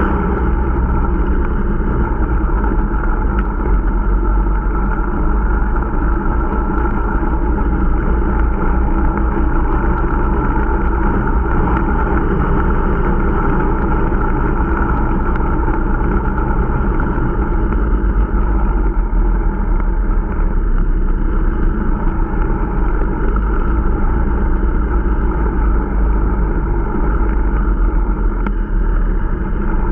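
Irbis Dingo T125 snowmobile's 125 cc engine running steadily under way on a new machine being run in.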